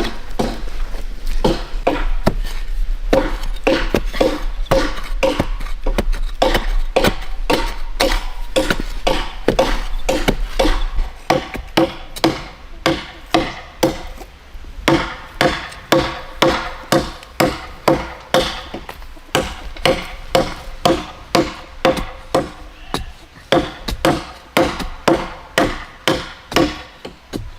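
Wood being chopped with a blade in steady repeated strokes, each a sharp knock with a short ringing tone. For the first ten seconds or so the strokes come thick and overlapping; after that they settle to about two a second.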